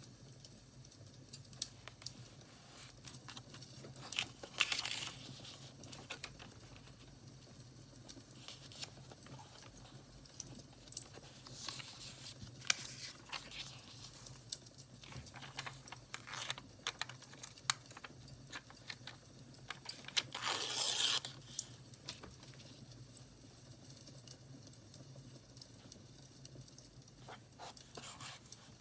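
Paper being handled and torn for journaling: scattered small crackles and rustles, with two longer tears about four seconds in and about twenty seconds in.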